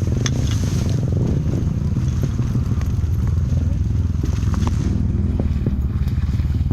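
Off-road trail motorcycle engine running steadily while riding over a rough dirt trail, with scattered knocks and rattles from the bumpy ground.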